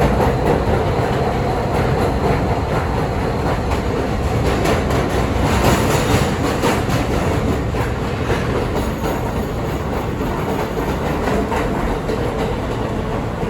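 R160B subway car with Siemens propulsion running on the line, a steady loud rumble of wheels on rails. Through the middle comes a run of sharp clicks as the wheels cross rail joints.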